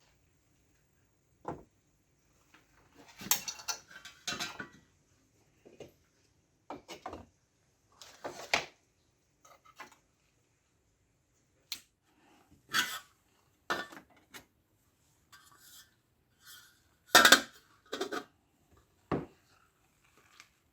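Metal parts of a restored electric heater clinking and knocking as they are handled and fitted back together: scattered short knocks and clinks with silent gaps between them, the loudest about 17 seconds in.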